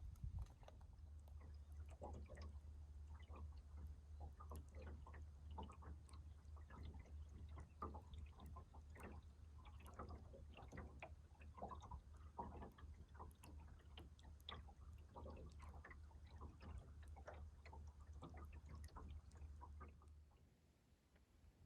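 Faint, irregular small ticks and lapping of little ripples against the wooden hull of a small sailing dinghy, over a low steady hum. The ticks fade out near the end.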